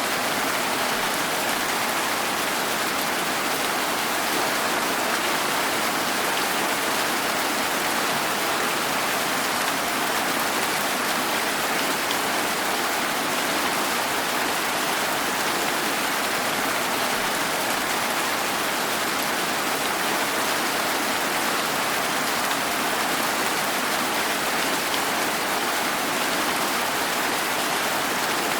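Steady rain falling, an even hiss of raindrops with no change in intensity.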